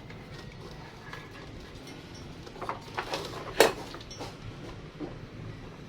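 Scattered clicks and knocks of parts and tools being handled during repair work, with one sharper knock about three and a half seconds in, over a low background hum.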